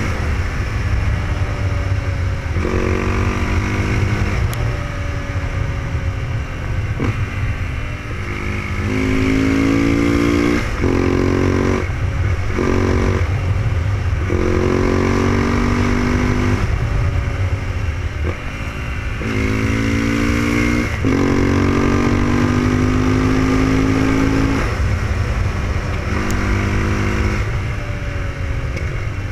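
KTM 690 SMC's single-cylinder engine under way on a winding road. Its note climbs in pitch again and again, then drops away as the throttle is rolled on and off through the bends. A steady rumble of wind and road runs underneath.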